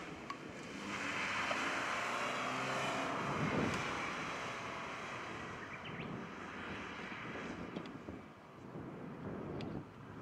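Subaru BRZ's 2.0-litre flat-four engine revving up and down as the car is driven around a tight course, loudest in the first few seconds and then fading as the car moves away.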